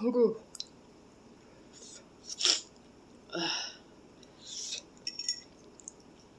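A woman sneezes right at the start, a short falling vocal burst, while her nose runs from the extra-spicy noodles. A few short breathy sounds and some light clicks follow.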